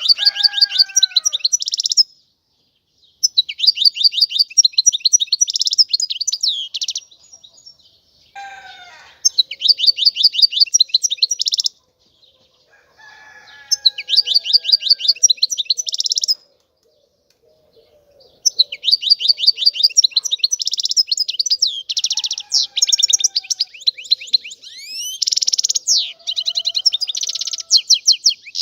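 European goldfinch singing: phrases of rapid, twittering trills, each a few seconds long, broken by short pauses, with a few fainter lower calls between them.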